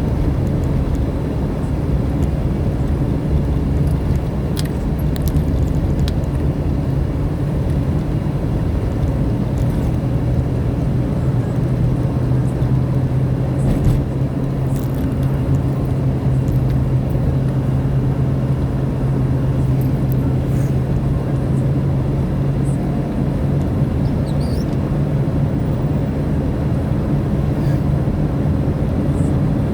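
A vehicle engine running steadily while driving, its hum holding one low pitch, over road noise.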